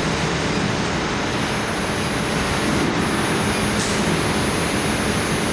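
Induction melting furnace for copper running: a steady, loud, even noise with a thin high-pitched whine held throughout. A brief hiss comes a little before four seconds in.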